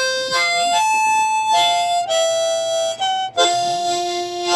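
Blues harmonica (harp) played in a short bluesy phrase of held notes, changing pitch every half second or so, ending on a longer low note that stops abruptly.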